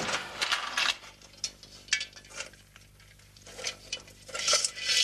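Pots, pans and utensils clattering and rattling in a series of short bursts, as things are shifted about while someone rummages for an object; the loudest bursts come at the start and near the end.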